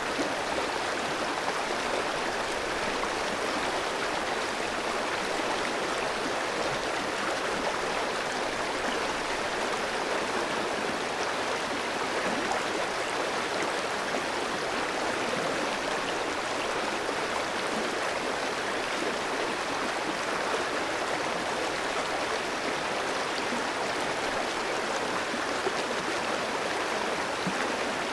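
Clear mountain stream flowing and splashing over rocks, a steady rush of water.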